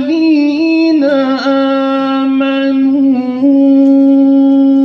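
Male voice reciting the Quran in melodic tajweed style, holding one long drawn-out note with a few small melodic turns in the first half, then a level held pitch near the end.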